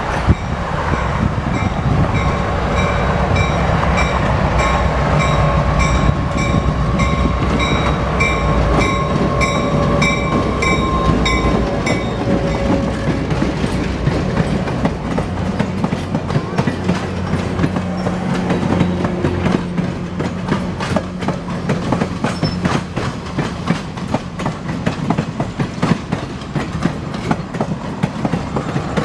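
Passenger train rolling along the track, its wheels clicking over the rail joints. For the first twelve seconds or so a pitched ringing sounds over it, pulsing about twice a second.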